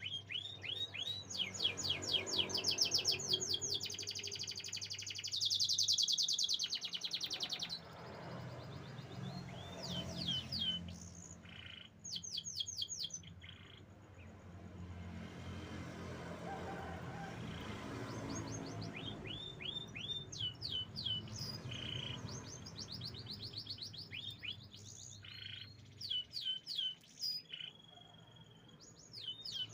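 Domestic canary singing: runs of quick, repeated downward-sweeping notes and fast rolling trills, broken by short pauses between phrases.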